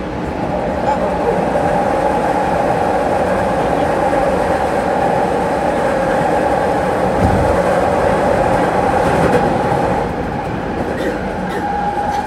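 Interior noise of a moving commuter train car: a steady rumble of the running train with a constant hum over it.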